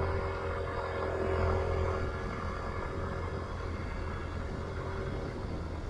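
A vehicle on the move: a steady low engine hum with road and wind noise. A faint steady whine fades out about two seconds in.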